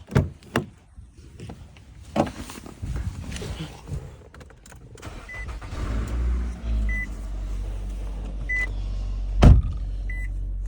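A few knocks and a car door, then the Nissan Altima's engine is started and settles into a steady idle, with no rattle on its new passenger-side engine mount. A dashboard warning chime beeps about every second and a half, and a door shuts with a loud thud near the end.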